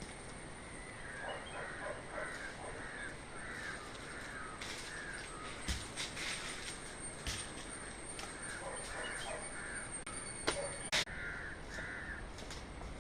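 Crows cawing repeatedly in two runs of short calls, about two a second, with a few sharp knocks in between.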